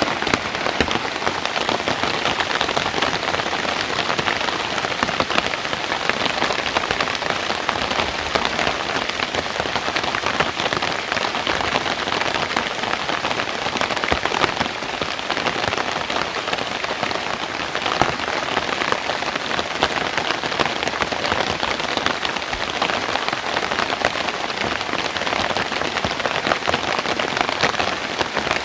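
Steady rain falling, many close drops pattering on surfaces in a continuous even hiss.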